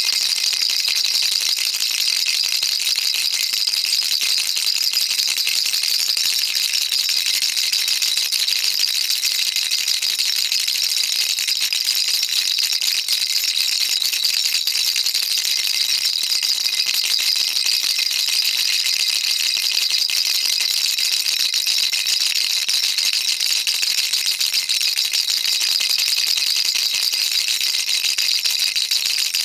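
Baby rattle shaken continuously in a fast, even rhythm, a dense high-pitched patter of small beads clicking inside a toy.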